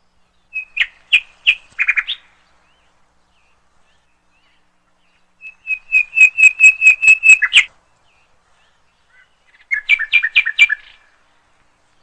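A bird chirping in three short bouts of quick, repeated high notes, the middle bout a run of about eight even chirps ending on a sharper note.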